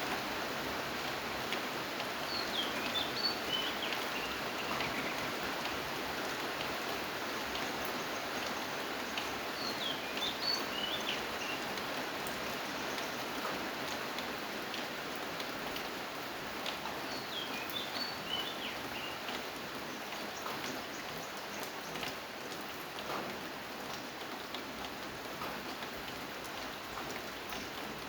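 Steady rain falling, with scattered individual drops ticking. A bird sings a short chirping phrase three times, about every seven or eight seconds.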